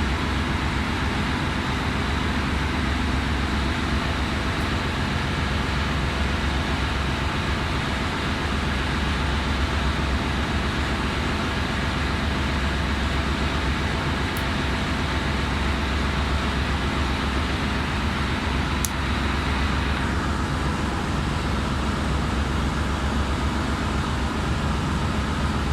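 Steady engine-room machinery drone: a constant low hum under an even wash of running-machinery noise.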